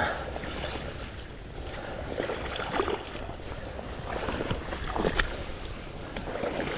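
Water sloshing and splashing around the legs of a person wading through deep water, with a few louder splashes.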